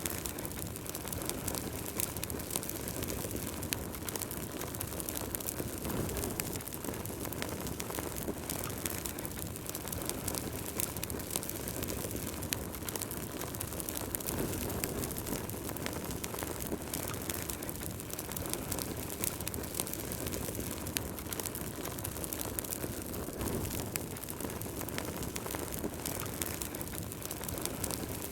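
Wood fire burning in a fireplace: a steady low rush of flames with frequent sharp crackles and pops scattered irregularly throughout.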